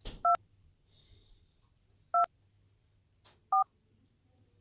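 Mobile phone keypad tones as a number is dialled: three short two-tone beeps spaced irregularly, each starting with a soft click.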